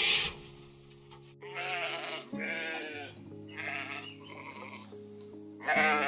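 Sheep bleating: two quavering bleats about one and a half seconds in, a fainter one a little later and a short loud call near the end, over background music with long sustained notes. A brief rasping rustle at the very start.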